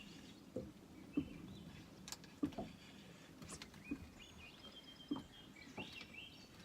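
Faint bird chirps over quiet outdoor ambience, with a few scattered soft knocks.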